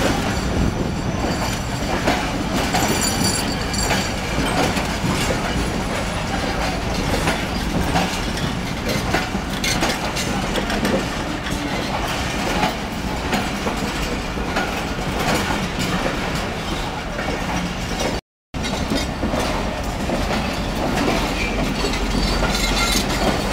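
Passenger train coaches rolling slowly along a station platform as the train arrives, wheels clicking over rail joints, with a few thin high wheel squeals near the start. The sound drops out for a moment about three-quarters of the way through, then steady station noise resumes.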